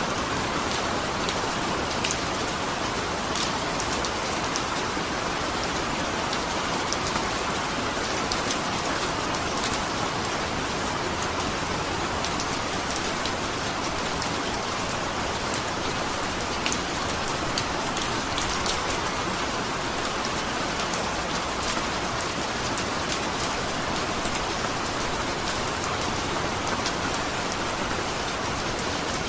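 Steady rain, an even hiss with many sharp individual drop ticks scattered through it.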